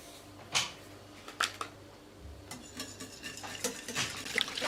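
Kitchen clatter: dishes and cutlery knocked and clinked together a few times, the last clinks ringing briefly near the end.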